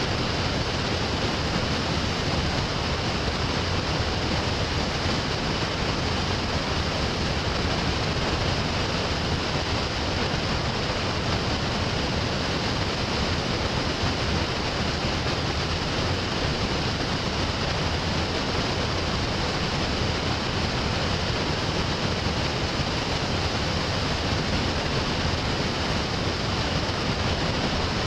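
Steady, unbroken rushing of water, holding the same level throughout.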